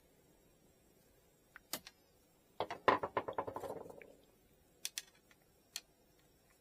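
Small hard objects clicking and rattling. A few sharp clicks are followed by a fast rattling run of clicks lasting about a second and a half that fades out. Then come two or three more single clicks.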